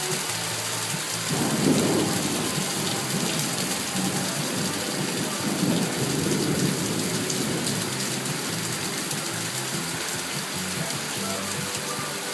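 Rain falling steadily, with two low rumbles of thunder, one about a second in and another around six seconds in.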